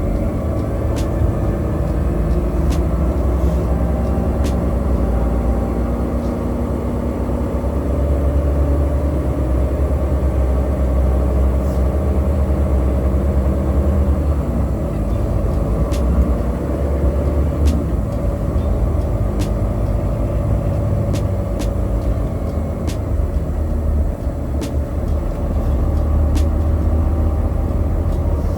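Truck engine running under way, a deep steady drone whose note rises and falls gently, with scattered light clicks and rattles.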